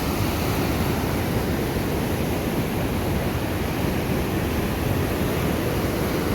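Rushing water from a fast mountain stream, a steady, unbroken roar.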